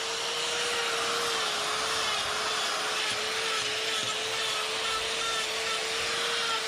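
Die grinder with a carving burr running steadily, its high motor whine over the hiss of the burr grinding into wood.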